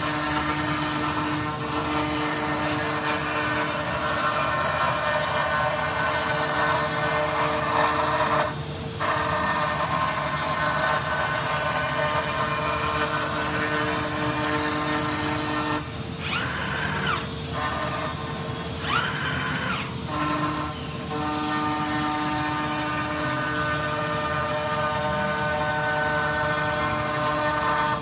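CNC milling machine cutting a metal part: a steady machining whine of several fixed tones over a noisy rush. It breaks off briefly about a third of the way in, and again in the middle, where the pitch swoops down and back up twice before the steady cutting resumes.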